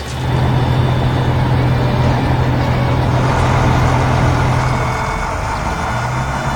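Heavy vehicle engine running steadily, a loud low hum under a rough noisy rumble, which drops out briefly about five seconds in and then resumes.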